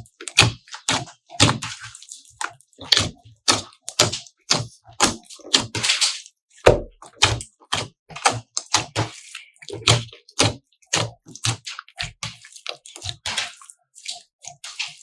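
Slime being squeezed and worked by hand, making a quick, irregular run of wet sticky clicks and pops, about two or three a second.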